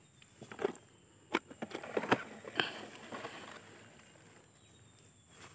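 Plastic toy trucks being handled on grass: a few light clicks and knocks with some rustling, dying away after about three and a half seconds.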